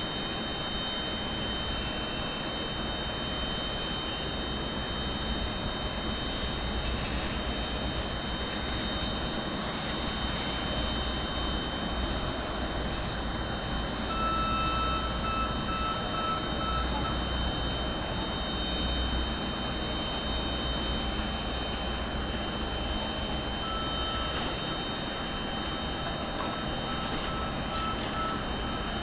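Steady drone of jet airliner engines across an airport apron, with a high whine held throughout. A fainter tone comes in about halfway through and again, pulsing, near the end.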